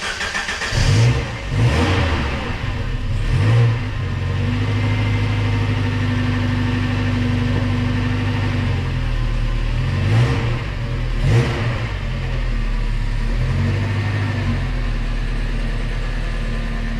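1989 Alfa Romeo Spider's twin-cam four-cylinder engine running just after a cold start, blipped three times in the first few seconds, then holding a steady fast idle with two more short blips of the throttle about ten and eleven seconds in.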